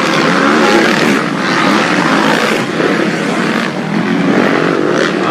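Motocross bikes racing, their engines revving up and down, with several overlapping.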